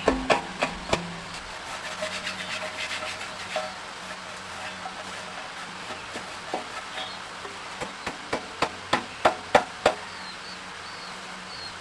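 Irregular sharp knocks and taps of hand tools during repair work on a rice milling machine, a few close together about a second in and a quicker run of knocks near the end.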